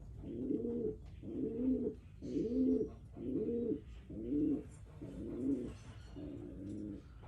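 Domestic pigeon cooing: a steady run of about seven low coos, roughly one a second, each rising and falling in pitch.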